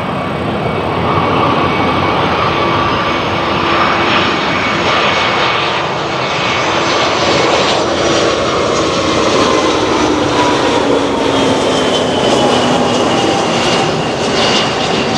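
Airbus A320-232's twin IAE V2500 turbofans on landing approach: a loud, steady jet roar with whining tones that slowly fall in pitch from about halfway through as the airliner passes.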